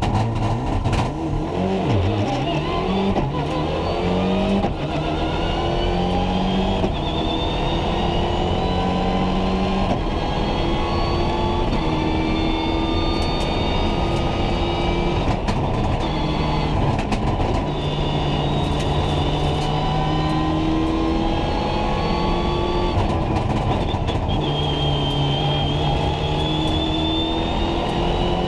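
Rally car engine heard from inside the cockpit, driven hard: its pitch climbs in steps through quick upshifts over the first few seconds, then stays at high revs with repeated rises and dips as it shifts and lifts for corners. Occasional sharp clicks cut through.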